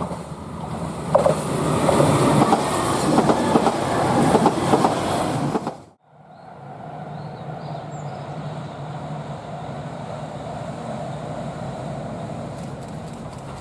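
A JR Shikoku 2000 series diesel multiple unit train running on the rails, its wheels clattering loudly. About six seconds in the sound breaks off abruptly, then fades back in as a steadier, quieter train running sound with a low hum.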